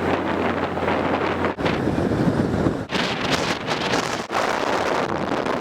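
Wind buffeting the microphone in a moving, open-top 1977 Triumph Spitfire 1500, over the sound of its four-cylinder engine and the road. The noise is steady and loud, and drops out for an instant three times.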